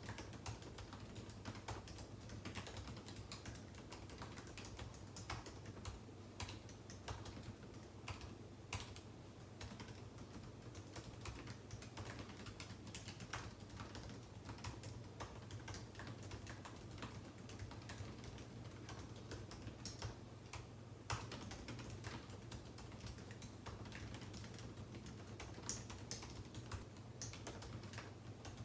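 Typing on a computer keyboard: an irregular run of key clicks, over a faint steady low hum.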